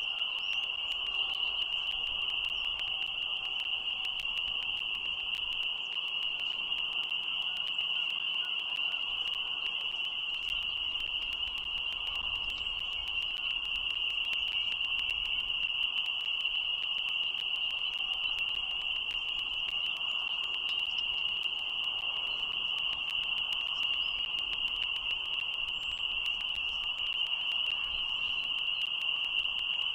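Dense chorus of spring peepers, many frogs calling at once and merging into one steady, high-pitched trill.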